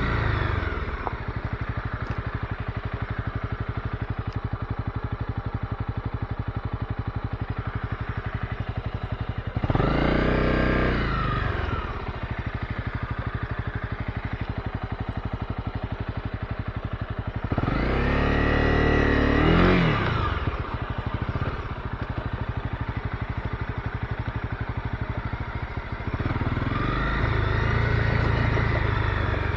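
Honda CB250R's single-cylinder engine running at low revs with a steady pulse, rising and falling in pitch three times as the throttle is opened and closed.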